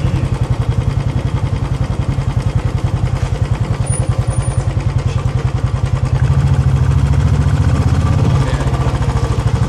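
Royal Enfield Classic 350 UCE's single-cylinder engine running under way, its exhaust giving an even, rapid thump. It grows louder for about two seconds a little past the middle, then settles back.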